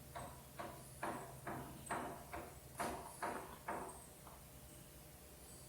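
A series of light knocks, about two or three a second, that stop about four seconds in.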